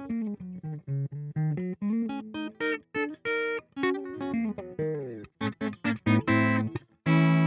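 Electric guitar played through a Peace Hill FX TR tube preamp with a distortion pedal: a riff of short single notes with brief gaps between them, then a loud chord struck and held about seven seconds in.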